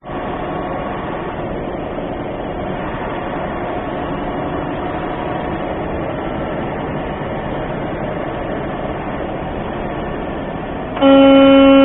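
Steady engine and road noise inside a semi-truck's cab at highway speed. About eleven seconds in, the truck's air horn blasts loudly and holds, sounded at an elk in the road just before the truck strikes it.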